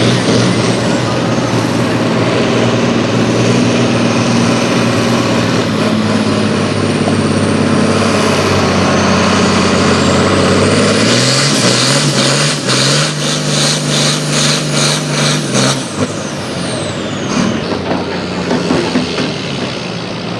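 Pulling truck or tractor engine running hard at high revs, with a thin high whine rising and falling over it. About eleven seconds in the pitch steps up, the sound pulses rapidly for several seconds, and about sixteen seconds in the revs drop off.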